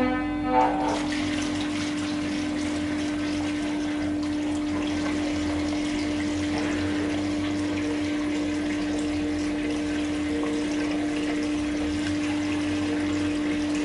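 Fresh petrol being poured into a motorcycle fuel tank: a steady pour of liquid, with a steady hum underneath.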